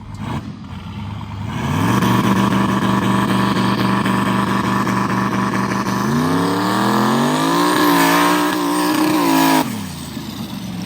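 Turbocharged mega truck's engine revving up and holding at a steady rpm on the two-step launch limiter for about four seconds, then climbing in pitch as it comes off the limiter and pulls, before the throttle is cut suddenly near the end.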